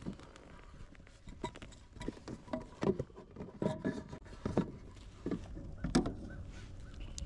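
Irregular knocks and thumps from a bass being handled on a measuring board in a kayak, the loudest about three and six seconds in.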